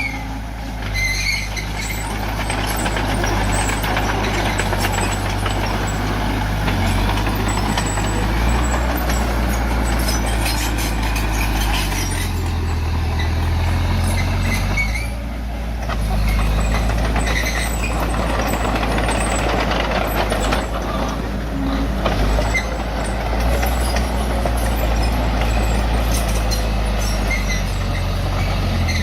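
Heavy diesel engine of earthmoving machinery working under changing load, its speed rising and falling several times, with scattered metallic clatter.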